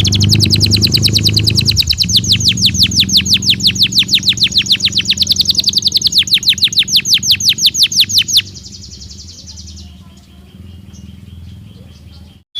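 Belgian canary singing: a long, fast trill of evenly repeated high notes that stops about eight seconds in, followed by softer, quieter notes, over a low steady hum.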